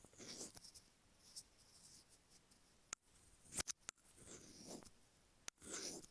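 Stainless steel ear pick scratching over the grooves of an iPhone earphone microphone, close up: several short gritty strokes with a few sharp clicks between them.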